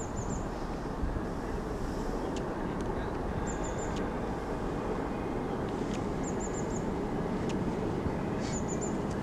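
Steady rumble of jet aircraft engines at an airport, holding at an even level. A short, high three-note chirp repeats four times over it.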